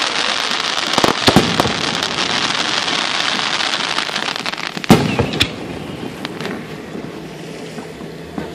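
Fireworks going off: dense crackling with sharp bangs about a second in and again near five seconds, then thinning to scattered pops.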